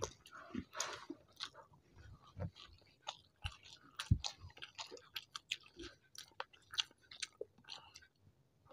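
Wet chewing and lip-smacking of people eating rice and mustard-steamed hilsa by hand, as short, irregular clicks and smacks.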